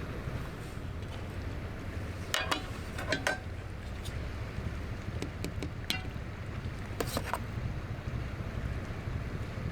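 Steady low wind rumble on the microphone in a sea breeze, with a few short sharp clicks scattered through it, the clearest about two and a half, three, six and seven seconds in.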